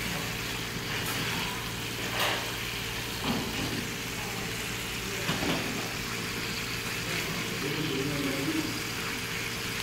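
Pieces of conger eel sizzling as they fry in oil in a frying pan, with a few short clicks as wooden chopsticks turn them. A steady low hum runs beneath.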